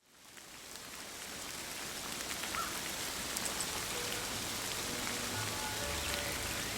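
Steady hiss of a winter storm's precipitation falling, fading up from silence at the start, with scattered faint ticks. Faint music creeps in about four seconds in.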